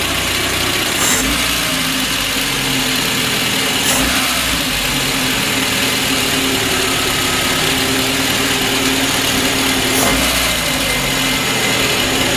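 VAZ-21099's carburetted four-cylinder engine idling, blipped up briefly about three times and falling back to idle each time, revved to push coolant through a suspected blocked expansion-tank line.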